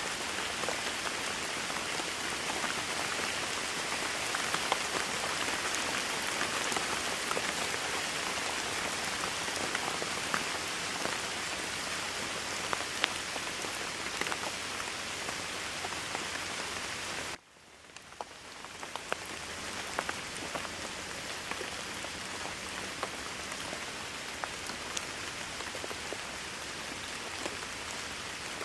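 Steady rain with sharp individual drop ticks. About two-thirds of the way through, the sound cuts out abruptly and fades back in over a couple of seconds, the mark of a splice or loop point in the rain recording.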